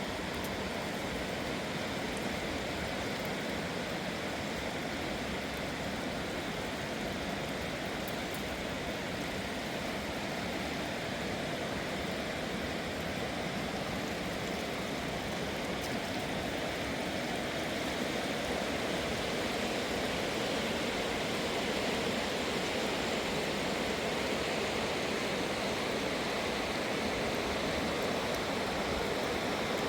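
A fast-flowing wild river rushing steadily, growing a little louder about two-thirds of the way through.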